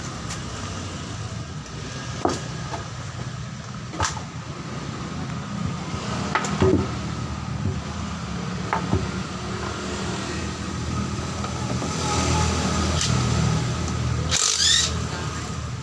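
Scattered metallic knocks and clinks of tools working on a truck's axle-shaft bolts, over a steady low hum, with a short harsh burst near the end.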